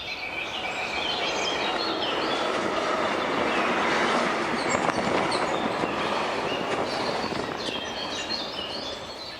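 Recorded sound effect of a train passing on rails: a dense rumble of wheels that swells to its loudest about four seconds in and then eases off, with short high wheel squeaks over it.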